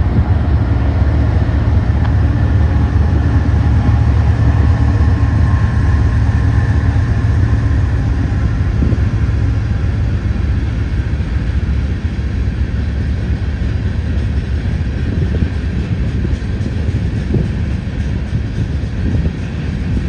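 Freight train passing close by: the diesel-electric locomotives' engines run with a steady low rumble and droning tones that fade out about halfway through as the covered hopper cars follow. The cars' wheels roll past with a rumble and scattered clacks over the rail joints in the later part.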